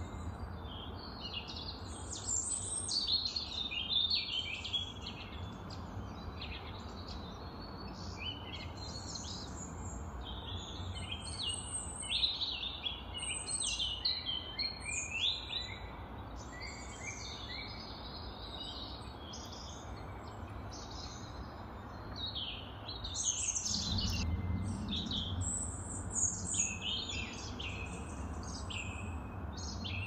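Many small birds chirping and singing in quick, overlapping phrases, over a steady low rumble that grows louder toward the end.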